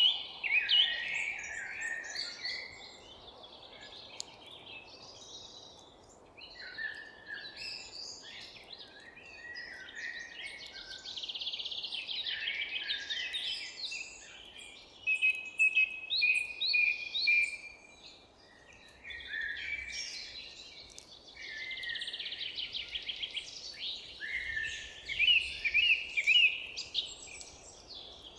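Several songbirds singing and chirping at once: overlapping quick trills, rapid note series and short whistled phrases, over a faint steady background hiss.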